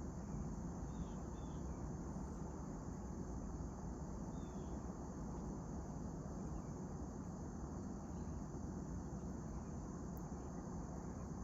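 Morning outdoor ambience: a steady high chorus of crickets, a few short faint bird chirps early on and again about four seconds in, over a constant low rumble.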